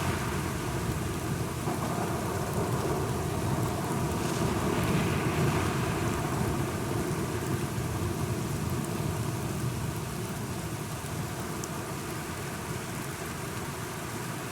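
Steady rain falling, with a low roll of thunder that swells about four seconds in and slowly fades.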